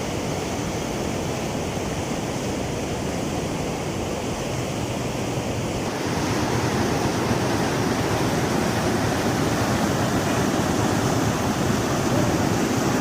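Floodwater rushing in a steady, even noise that grows louder about six seconds in.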